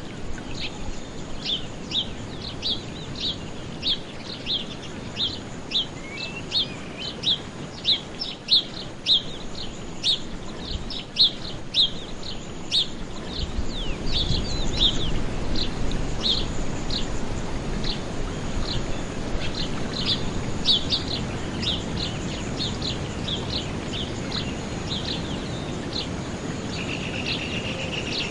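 A small bird chirping over and over, short high calls about two a second, over steady outdoor background noise that grows louder about halfway through. Near the end a steady high insect trill joins in.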